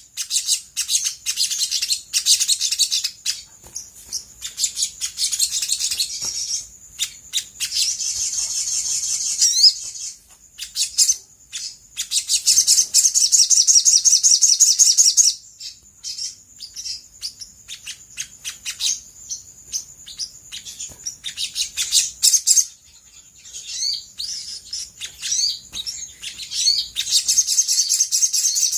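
Olive-backed sunbird singing: high, rapid trilled runs lasting a few seconds each, four times over, broken up by sharp separate chirps and short rising-and-falling whistled notes.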